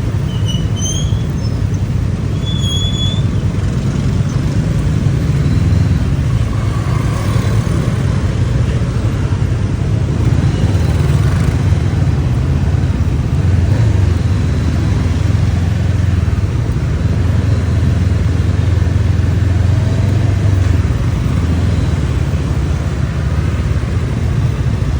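Honda CB500X's parallel-twin engine running steadily at low road speed amid surrounding traffic. Two brief high-pitched chirps sound in the first three seconds.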